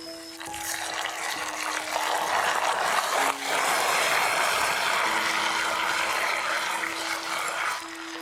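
A steady stream of liquid being poured, building up over the first two seconds and stopping sharply near the end, over light background music.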